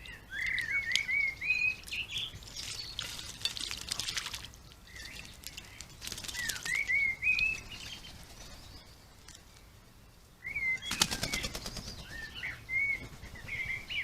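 A songbird singing three short phrases of whistled, warbling notes, each rising and falling, with pauses between them. Two short bursts of rapid fluttering, the second about eleven seconds in, cut across the song.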